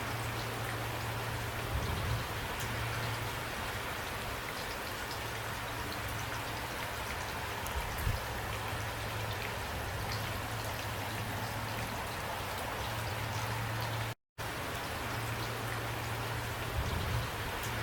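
Steady rain, with individual drops heard as sharp ticks, over a steady low hum with a few soft low thumps. The sound cuts out completely for a split second about fourteen seconds in.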